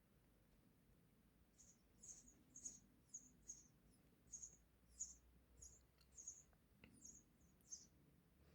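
Hungry sparrow nestlings cheeping faintly, about a dozen short, high-pitched cheeps at roughly two a second, beginning a couple of seconds in.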